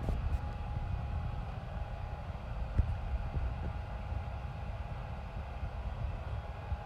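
Motor yacht's machinery running: a steady low rumble with a thin, steady mid-pitched whine over it, and a few light knocks.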